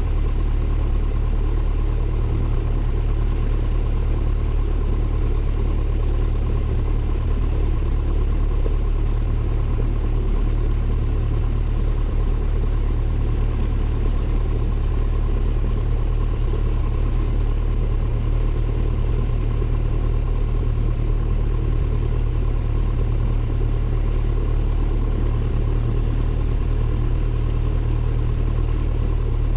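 Cessna 172N's four-cylinder Lycoming engine and propeller running steadily, a constant low drone heard from inside the cockpit.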